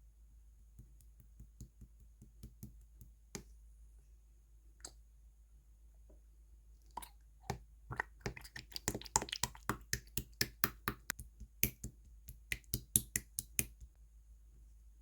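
Slime being squished and pressed by hand, giving sharp sticky clicks and pops: a few scattered ones at first, then a quick run of them from about halfway through until near the end.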